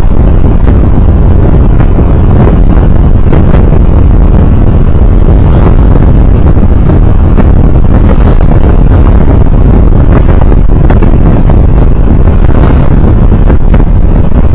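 Steady, loud road-driving noise from a moving vehicle, heard by an onboard recorder: a dense low rumble of engine, tyres and wind that stays even throughout.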